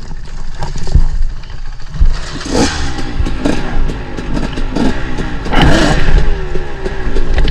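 Dirt bike engine revving up and down in repeated bursts while riding rough trail, with several sharp knocks and clatter as the bike hits obstacles.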